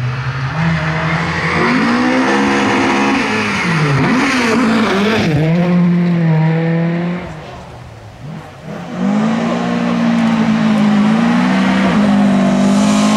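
Volvo 740 rally car's engine revving hard under load, its note climbing and dropping several times with gear changes. It backs off and goes quieter for a moment around eight seconds in, then pulls hard again.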